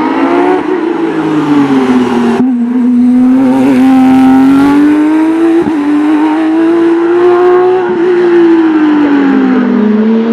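Porsche racing car's engine running hard up a hillclimb, its pitch rising and falling as the car accelerates and eases off. The sound breaks off abruptly about two and a half seconds in and picks up again at a similar pitch.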